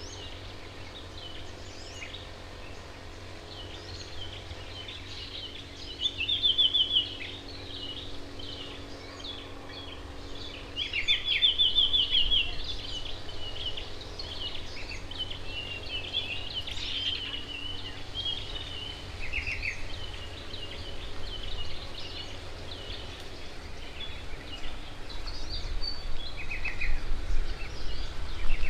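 Wild garden birds chirping and calling, with several short, fast trills standing out over a steady low rumble.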